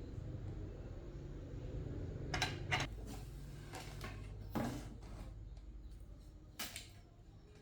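About five light clicks and knocks, spaced irregularly, over a low hum that fades out toward the end.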